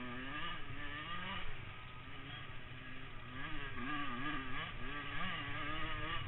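Motocross bikes' engines revving, rising and falling in pitch, with more than one engine heard at once.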